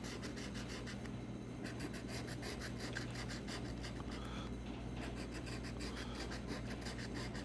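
Scratch-off lottery ticket being scratched, quick repeated scraping strokes that wear the coating off the play area.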